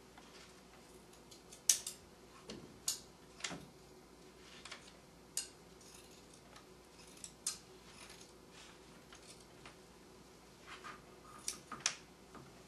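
Scissors cutting through layered fleece and batting: irregular short, sharp snips with pauses between them, a cluster of them near the end.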